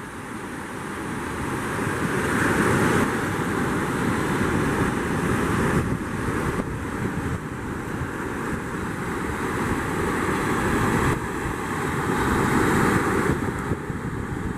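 Wind buffeting the microphone, swelling and easing in gusts, over the wash of surf at the estuary mouth.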